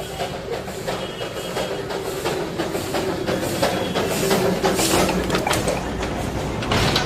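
Darjeeling Himalayan Railway narrow-gauge toy train running, with rapid clicking and rattling of wheels on rail joints over a steady rumble, growing louder toward the middle.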